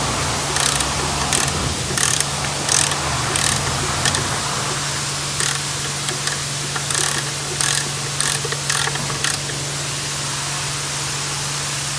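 Hand ratchet wrench clicking in short strokes, in two runs of several strokes each, over a steady low hum.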